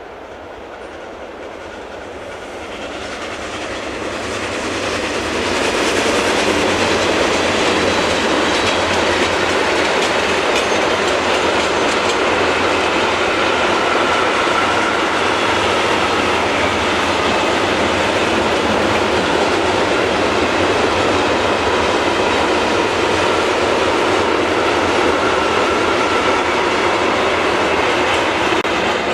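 Freight train approaching, louder over the first six seconds, then passing close by on the main line with its wagons rumbling steadily over the rails.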